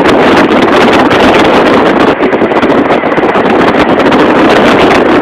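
Loud, steady rushing noise of wind blowing across a phone's microphone.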